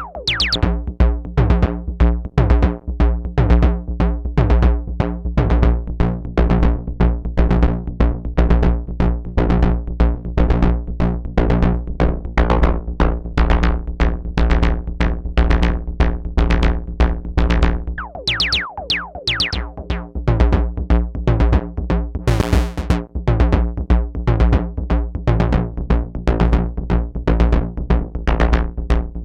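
Analog percussion synthesizer playing a sequenced drum pattern: a steady fast run of hits over a deep bass thump, some hits sweeping downward in pitch, with a brief burst of noise about three quarters of the way through.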